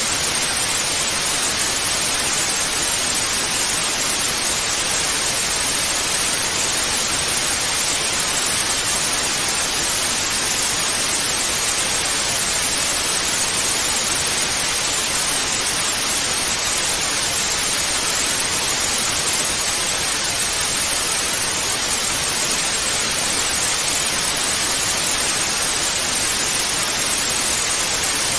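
Television static (white noise), a steady even hiss that stays the same throughout, strongest in the upper-middle range.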